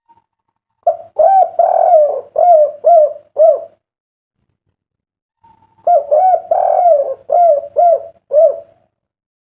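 Spotted dove (derkuku) cooing, two song phrases about two seconds apart. Each opens with a longer coo and ends in three short, rounded notes, the three-note 'kuk 3' ending prized by Indonesian dove keepers.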